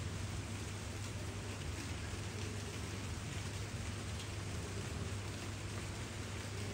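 Rain falling steadily, an even hiss of drops with a low rumble underneath.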